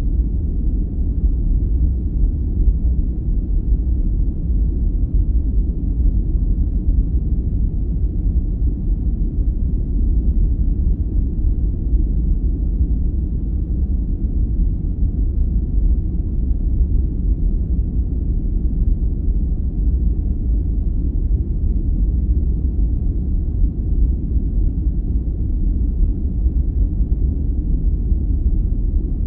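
Sleep-aid noise track: a steady, deep, muffled noise with no high hiss, unchanging throughout.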